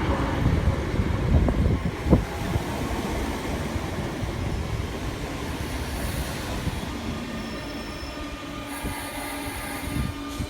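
Train running past on the rails, a loud rumble with a sharp knock about two seconds in, then fading away, with brief high wheel squeals later on.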